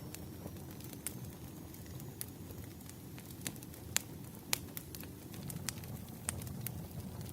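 Firewood burning: irregular crackles and sharp pops over a low steady rumble of the fire, with the two loudest pops about four seconds in, half a second apart.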